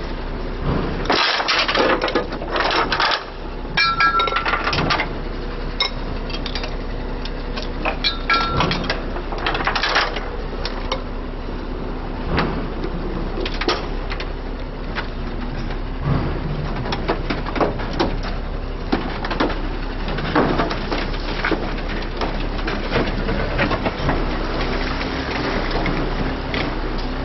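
Irregular knocks and clanks, some ringing briefly, from heavy recovery work on a crashed truck, over a steady engine hum.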